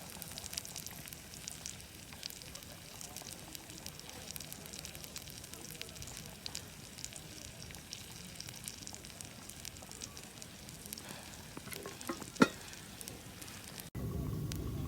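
Steak sizzling as it fries in a pan, a steady crackling hiss, with one sharp clink about twelve seconds in. Near the end the sound cuts suddenly to a lower, steadier rush.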